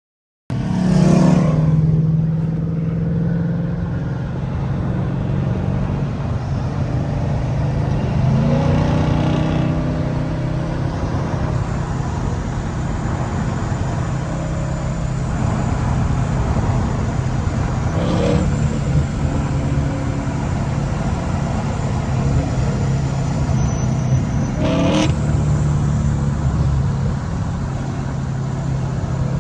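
High-horsepower street-race car engine idling with a lumpy, steady note, blipped into a few short revs.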